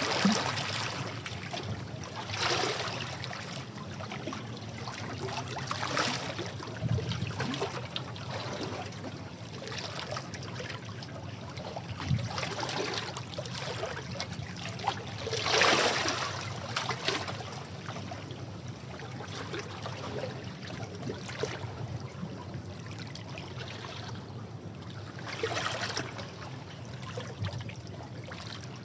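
Sea waves breaking and washing over rocks, with repeated splashing surges every few seconds, the largest about halfway through.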